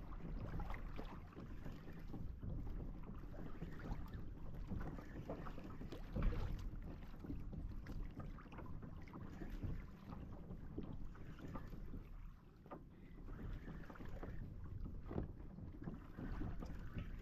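Water slapping and lapping against a kayak hull, with wind buffeting the microphone and irregular small knocks, one louder about six seconds in.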